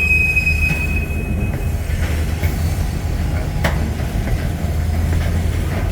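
Freight train switching: a high, steady wheel squeal fades out in the first two seconds, then a single sharp bang a little past halfway, over a steady low diesel rumble.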